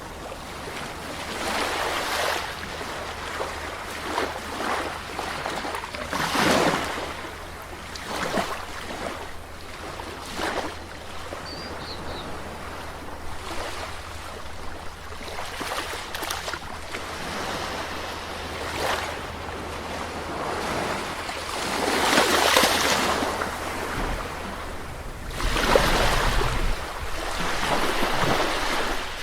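Sea waves breaking and washing on a shore, swelling and falling away every few seconds, with louder breakers about a quarter of the way in and twice near the end.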